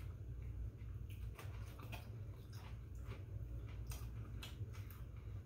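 People chewing and biting into McDonald's Big Macs, a string of irregular soft wet mouth clicks and smacks close on a lapel microphone, over a steady low hum.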